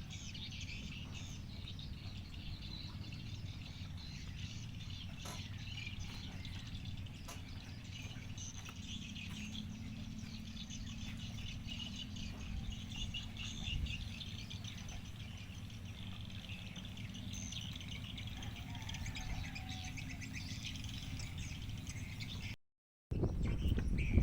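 Many birds chirping and twittering continuously over a steady low rumble.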